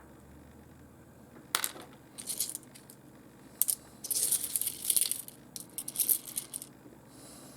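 Small pieces of rough fossil opal clicking and rattling against one another as they are sorted through by hand: a sharp click about a second and a half in, then irregular bursts of clatter, busiest around the middle.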